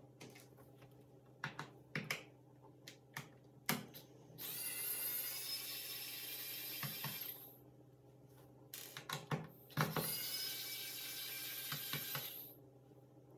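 Small electric screwdriver running twice, about three seconds each time, between light clicks and knocks of screws and plastic laptop parts being handled.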